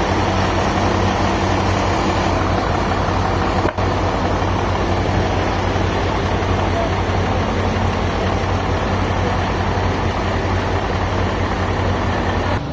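A heavy engine running steadily with a constant low hum under a loud wash of machinery noise, with a brief dropout a little under four seconds in.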